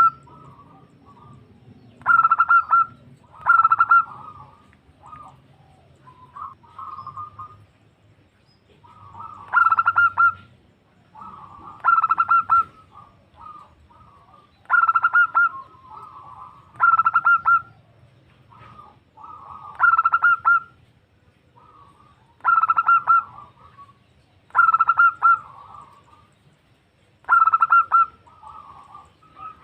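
Female zebra dove (perkutut) calling to draw a male: about ten short bursts of rapid rolling coos, each under a second, with softer coos in between. A lull of only soft notes falls between about four and nine seconds in.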